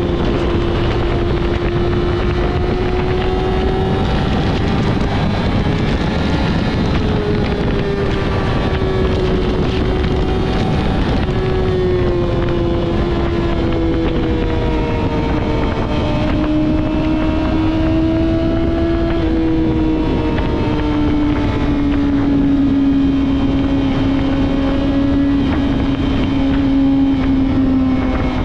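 Yamaha R6 inline-four sport bike with a Two Brothers full-system exhaust, running steadily under way. The engine note rises slightly around the middle, then eases gradually lower toward the end, under steady wind noise on the microphone.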